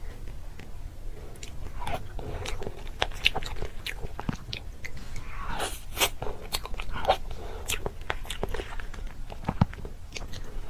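Close-up crunchy biting and chewing of food: irregular sharp crunches and crackles, densest in the middle.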